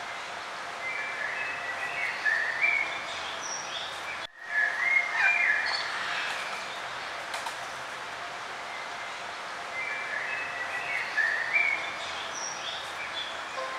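Songbirds singing in short warbling, chirping phrases over a steady outdoor background hiss. The sound drops out abruptly for a moment about four seconds in.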